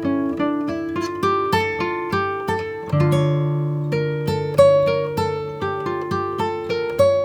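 Background music: plucked acoustic guitar picking single notes at an even pace, about three a second, each ringing and dying away, with a low note held from about three seconds in.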